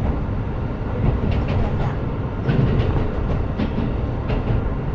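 KiHa 125 diesel railcar running along the line: a steady low rumble of engine and wheels, with irregular clicks and knocks as the wheels pass over rail joints.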